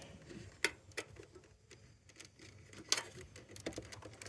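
Faint, scattered clicks and handling of plastic wiring connectors on a washing machine's control board, with a few sharper clicks at irregular moments.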